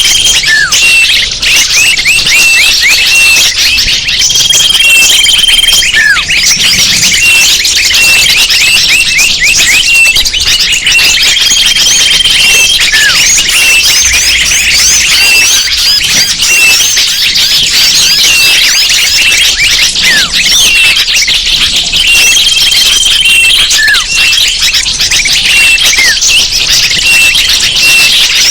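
Bird-lure recording of many small birds calling at once: a dense, steady mass of high chirps and twitters, with a held, steady whistled note that comes back every several seconds and a few short falling notes.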